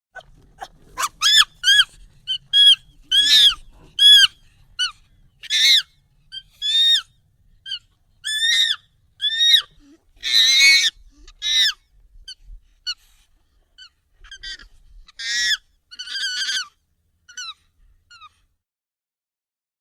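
Monkey calls, sped up and pitched up: a run of short, high calls, each arching up then down in pitch, coming one or two a second and thinning out after about twelve seconds.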